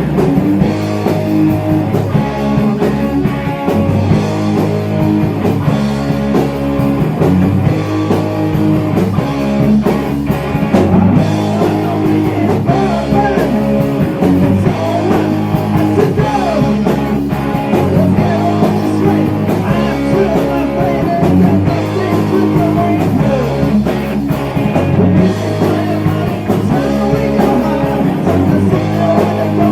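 Heavy metal band playing: electric guitars over bass and drums in a steady, repeating riff.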